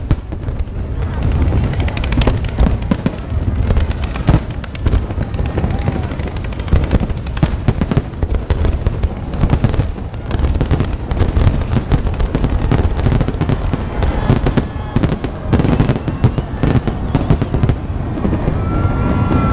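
Aerial fireworks going off in quick succession: a dense run of bangs and crackling over a continuous low rumble. Near the end, voices from onlookers come in.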